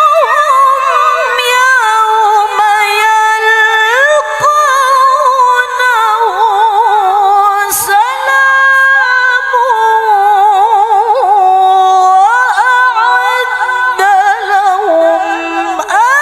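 Woman's voice reciting the Qur'an in the melodic tilawah style: one long, drawn-out phrase of held and gliding notes with rapid wavering ornaments, sung without accompaniment.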